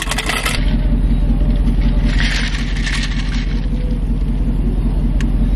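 Car engine idling, a steady low rumble heard from inside the cabin. A short noisy burst comes right at the start, and another about two seconds in.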